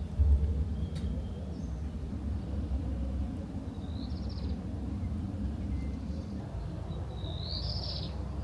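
Small birds chirping twice, a short call about four seconds in and a longer one near the end, over a steady low rumble.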